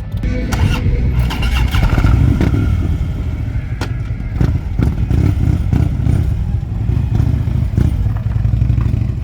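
Harley-Davidson motorcycle V-twin engine running with a loud, low rumble, swelling briefly in loudness about a second in.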